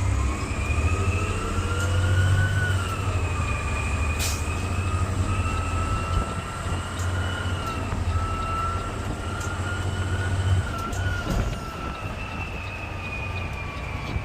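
Garbage truck's diesel engine running with a low rumble and a steady high whine that drifts slowly up and down in pitch, from the hydraulic packer working. A single click about four seconds in.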